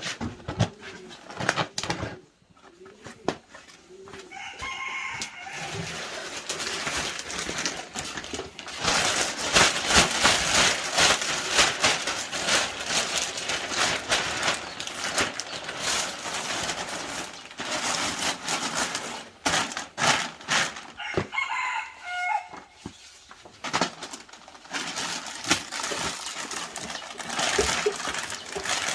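Rooster crowing twice, about five seconds in and again near the twenty-second mark, with a long stretch of dense crackling noise between the crows.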